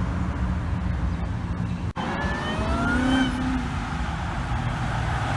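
Car engine and exhaust rumbling as a car drives out, then revving up and rising in pitch for about a second, a little past the two-second mark.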